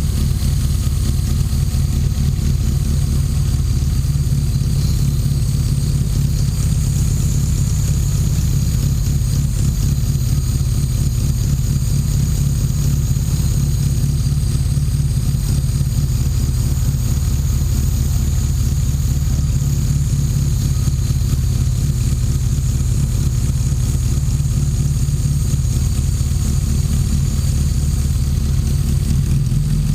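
1988 Classic Mini's A-series four-cylinder engine idling steadily through a new exhaust while warming up, running rich on untuned fuelling and timing.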